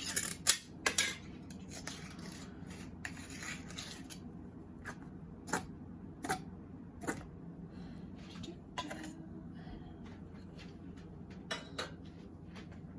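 Kitchen handling sounds from preparing cat food: scattered sharp clicks and clinks of dishes and utensils, with a stretch of rustling and clattering in the first few seconds.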